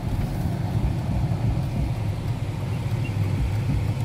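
Steady low rumble of a BMW car's engine and running gear, heard from inside the cabin.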